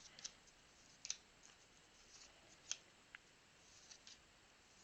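Faint scattered ticks and swishes of trading cards being slid off and flipped through a stack by hand, a soft flick every half second or so.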